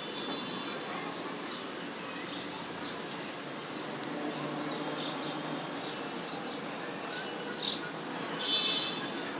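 Sparrows chirping: scattered short, high chirps, with a quick cluster of louder ones about six seconds in and another near eight seconds, over a steady low background noise.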